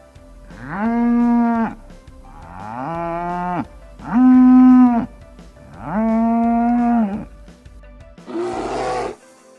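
Cattle mooing: four long, drawn-out moos with short pauses between them, then a shorter, rougher moo near the end.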